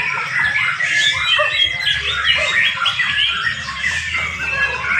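Several young white-rumped shamas singing at once, a dense, continuous tangle of overlapping whistles, trills and chirps.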